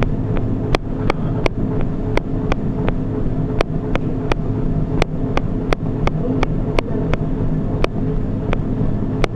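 Running footfalls striking a treadmill belt, a sharp regular strike about every third of a second, over the steady hum of the treadmill's motor.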